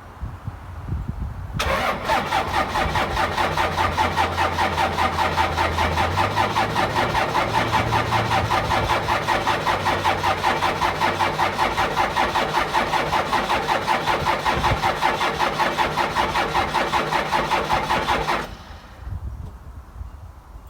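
Cummins 12-valve inline-six diesel in a 1997 Dodge 2500 being cranked over by its starter on a cold start at about 10°, without a block heater. It chugs in an even rhythm of about five to six beats a second for roughly seventeen seconds, then stops abruptly without settling into an idle.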